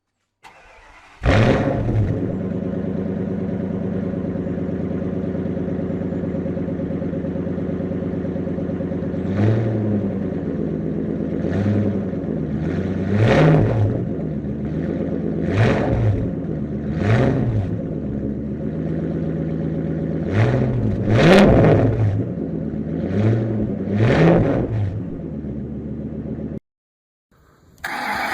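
Ford 6.8-litre Triton V10 starting with a brief flare, then idling steadily. From about a third of the way in it is given about ten short throttle blips, each rising and falling back to idle, before cutting off suddenly near the end.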